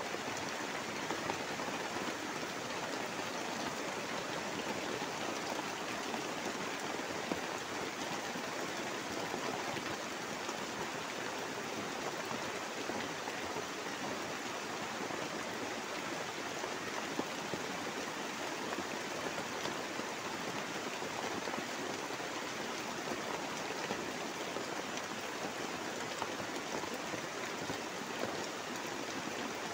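Heavy rain falling steadily on a tarpaulin shelter: a dense, even hiss that does not let up.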